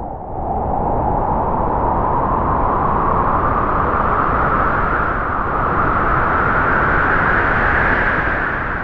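Strong wind howling: a steady rushing noise with a whistling tone that slowly rises in pitch and falls back again near the end.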